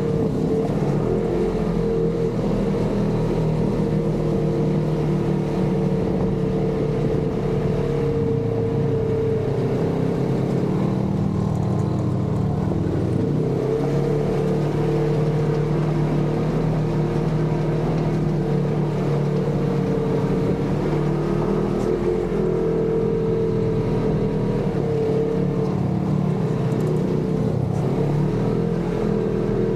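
Polaris RZR side-by-side engine running steadily under way, the engine speed shifting slightly a few times.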